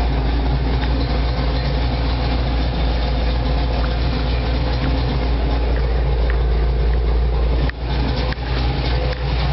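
Chevy 350 V8 with a ProComp thumper cam and MSD Atomic EFI fuel injection, idling steadily. The sound drops out briefly a couple of times near the end.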